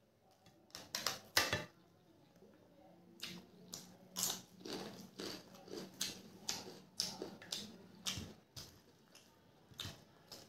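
A crisp papad (lentil wafer) being bitten and chewed: a couple of loud crunches about a second in, then steady crunchy chewing at a little over two bites a second, with another crunch near the end.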